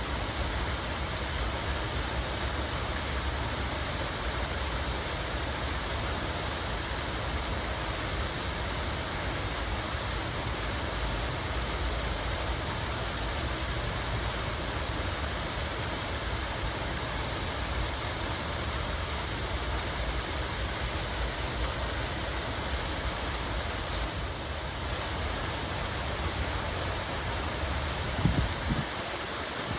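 Steady rushing of running water from a park's fountain or small cascade. A brief low thump near the end.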